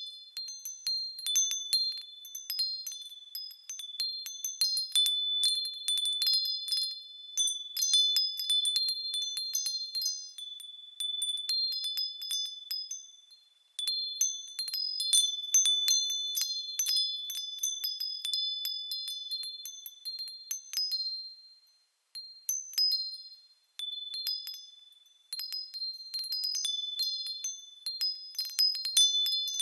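Small metal bells being moved so they strike and ring, a dense high tinkling of many quick strikes with overlapping ringing tones, falling silent briefly about 13 seconds in and again around 22 seconds.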